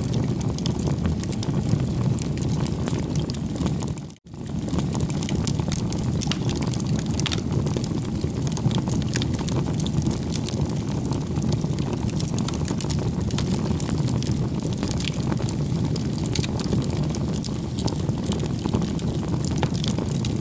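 Bonfire burning: a steady low rush of flame with many sharp crackles and pops of burning wood. The sound cuts out completely for a moment about four seconds in, then resumes.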